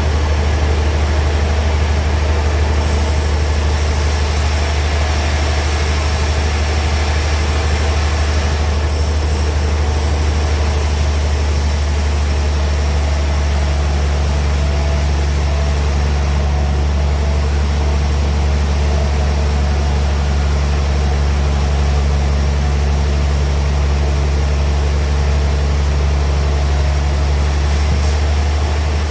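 Band sawmill machinery running steadily with a loud, even low hum. A high hiss joins about three seconds in and drops away near the end.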